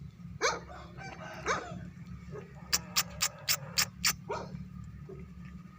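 Mianwali aseel rooster giving short rising calls. In the middle comes a quick run of about six sharp clicks, and a low steady hum runs underneath.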